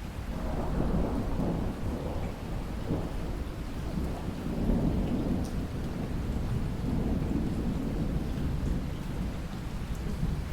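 A long roll of thunder starts about half a second in and rolls on through the whole stretch, over steady rain hissing on the lake.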